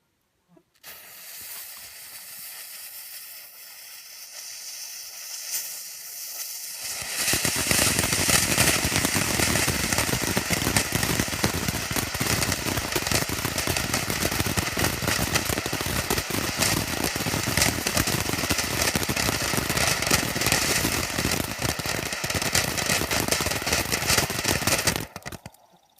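A spark-spraying fountain firework going off: a quieter hiss for the first several seconds, then a loud, dense crackling spray for about eighteen seconds that cuts off shortly before the end.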